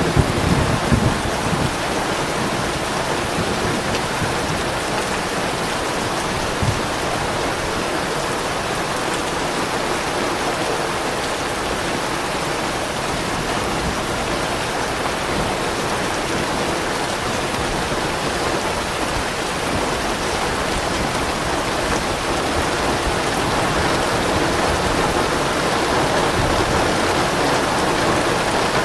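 Steady rainfall, with a low rumble of soft thunder dying away in the first second or so. The rain grows slightly louder near the end.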